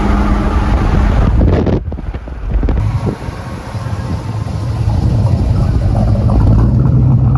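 A car engine running, a low steady rumble that dips briefly about two seconds in and then grows louder toward the end, with wind buffeting the microphone.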